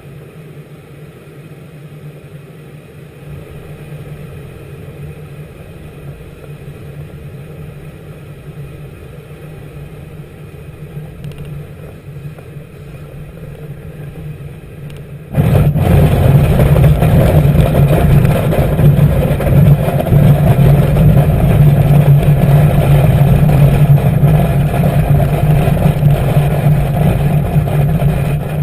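An engine running steadily with a low hum that slowly grows louder, then turns abruptly much louder about halfway through and stays loud.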